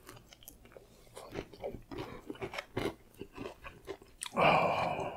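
Close-up chewing and crunching of fried chicken: many short crackly crunches and mouth smacks, with a louder, longer mouth sound of about a second near the end.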